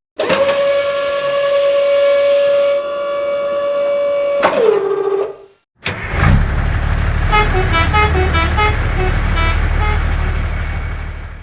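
A vehicle horn held on one steady note for about four and a half seconds, sagging lower in pitch as it cuts off. After a brief gap a low engine rumble runs, with a quick tune of short high notes over it for a couple of seconds.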